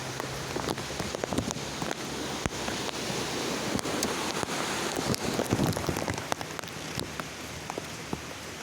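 Rain falling steadily, with many sharp drop hits close by. It gets somewhat quieter about six seconds in.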